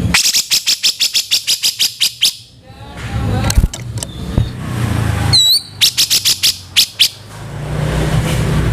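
Cucak jenggot (grey-cheeked bulbul) giving its harsh 'kasaran' call: a fast run of about a dozen rough, clipped notes over two seconds. A short whistled note follows, then another quicker burst of rough notes around six seconds in, over a low background rumble.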